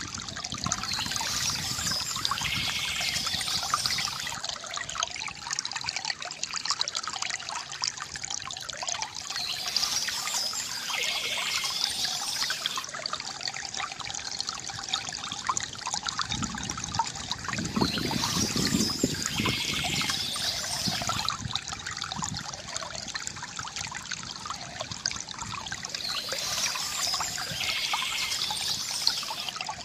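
Water from a bamboo fountain spout trickling and splashing steadily into a basin, with a brighter hiss returning about every eight to nine seconds and a heavier splashing stretch a little past the middle.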